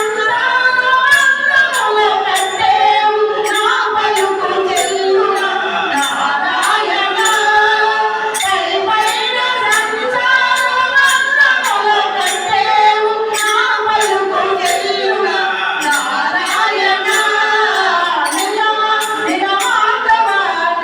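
Group singing of a Telugu devotional bhajan with a steady beat of jingling hand percussion.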